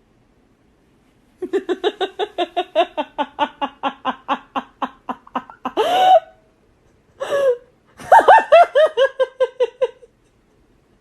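A person laughing hard in a long run of fast, rapid-fire bursts that starts about a second and a half in, breaks for two short whoops, then goes on in a second run of bursts that fall in pitch.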